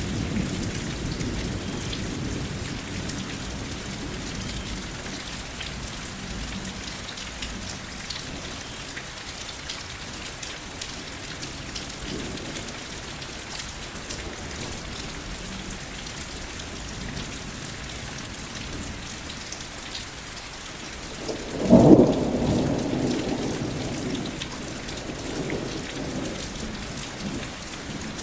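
Steady rain with thunder: a rumble fades out at the start, then about twenty-two seconds in a sudden clap of thunder rolls and rumbles away over several seconds, with the rain hissing throughout.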